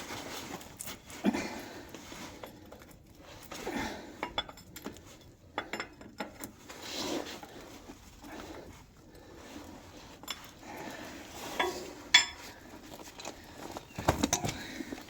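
Spanner working on the fuel-tank mounting bolts of an old stationary engine: scattered metallic clinks and scrapes as the bolts are undone, with a few sharper clinks near the end.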